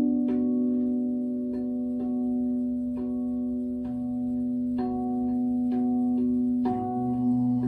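A singing bowl ringing with a steady, humming tone, while slow melodic notes are struck over it about once a second, each one ringing on.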